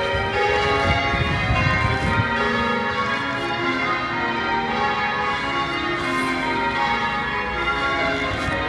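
Church bells ringing a continuous peal, many bells striking in overlapping succession. A low rumble sits under the bells for about the first two seconds.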